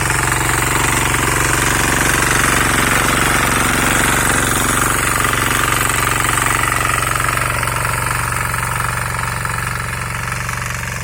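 6hp Greaves single-cylinder diesel power weeder engine running steadily with a rapid, even knocking beat, a little quieter near the end.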